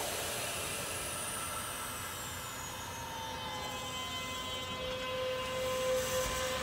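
Kintetsu 12200 series limited express train starting to pull out of the station: a steady hiss and hum with several held tones and a faint falling whistle, growing louder as the train begins to move near the end.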